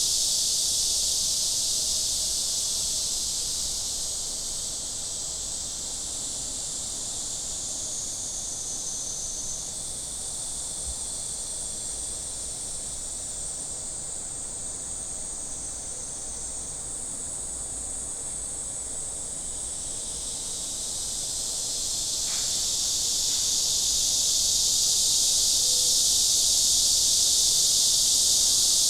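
A chorus of summer insects buzzing high and steady. It dies down a few seconds in and swells back to full strength from about twenty seconds in.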